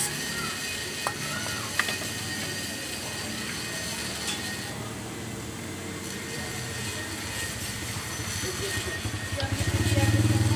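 Steady background hiss with two light clicks of metal CVT parts being handled early on. About nine seconds in, a motorcycle engine starts running loud and steady.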